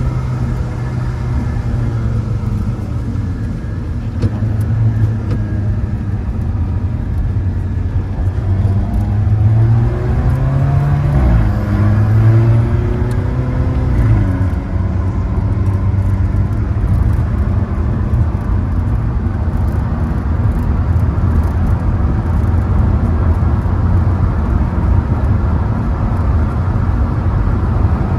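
Alfa Romeo sports car's engine heard from inside the cabin under hard driving. It revs up and drops sharply twice in the middle, as at two gear changes, then holds steady at speed under constant road noise.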